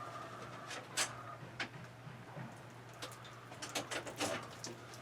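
Scattered clicks and rattles of a wire rabbit cage being opened and handled: a sharp click about a second in, another soon after, then a quick cluster of clicks between about three and four and a half seconds.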